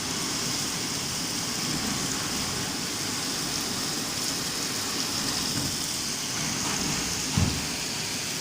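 Heavy rain in a windstorm, a steady hiss. A brief low thump about seven seconds in.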